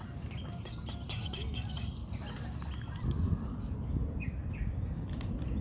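Outdoor ambience with a steady low rumble and a short, high bird chirp a little over two seconds in.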